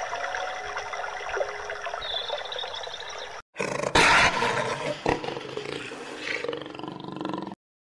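A steady hissing underwater ambience that cuts off about three and a half seconds in. It is followed by a cheetah's harsh growling call, loudest just after the cut, with quieter calls after it.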